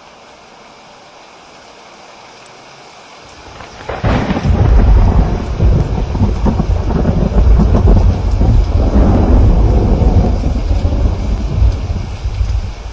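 Steady rain, then about four seconds in a loud, deep roll of thunder breaks in suddenly and rumbles on for several seconds before it starts to ease near the end.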